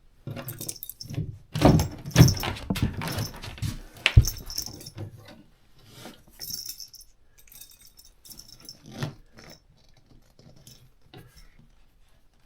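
Jangling, clinking handling noises from a snowshoe as a foot is worked into its new leather binding and the straps are pulled snug. Irregular clicks and knocks come thick through the first few seconds, then thin out to scattered faint ones, with one sharper knock late on.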